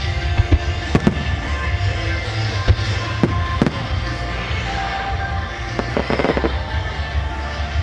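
Starmine fireworks display: aerial shells bursting with sharp bangs, a few near one second in and a quick cluster about six seconds in, over continuous music.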